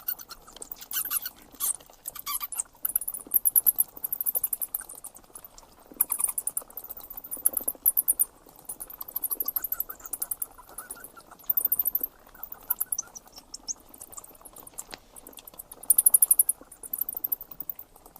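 Very high-pitched, rapidly pulsed chirping trills from a small animal, coming in short bursts every second or two.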